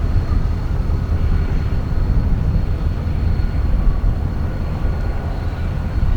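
Diesel locomotive BRR 5353 running with a steady low rumble as it backs a cut of cars toward a coupling during switching.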